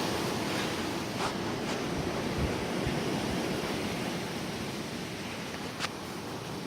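Gusty wind with light rain: a steady rushing noise, with low buffeting thumps on the microphone a couple of seconds in and a few sharp clicks, easing slightly toward the end.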